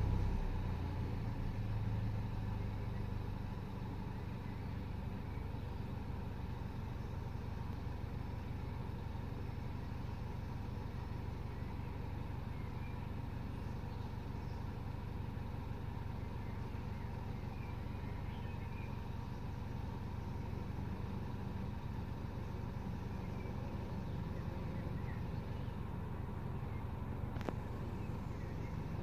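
Peugeot RCZ's 1.6 THP turbocharged four-cylinder petrol engine idling, its revs settling back down in the first couple of seconds after a throttle blip, then running steadily. This engine has an intermittent rough idle while warming up from cold, which the owner thinks may be the coil packs or the high-pressure fuel pump.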